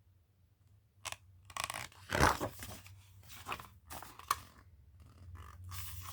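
Paper rustling and crackling in a string of uneven bursts, the loudest about two seconds in: the pages of a picture book being handled and turned.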